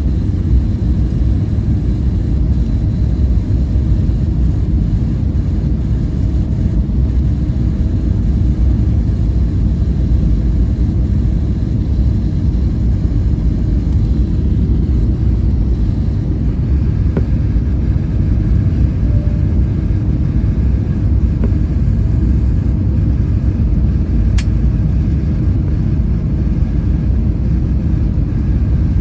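Steady low rumble of an Airbus A320-family airliner heard from inside the cabin: the jet engines and the rush of air around the fuselage.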